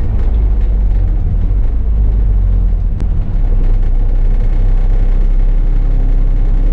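Bus engine running with road noise as the bus drives, a steady low rumble, with a single brief click about three seconds in.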